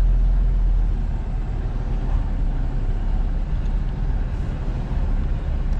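Semi truck's diesel engine running with a steady low rumble as the truck moves slowly into position at a loading door.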